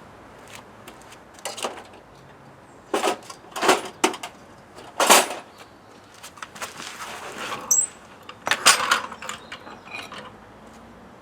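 Mechanical rattling and scraping in about six short bursts, with a brief high squeak about three-quarters of the way through.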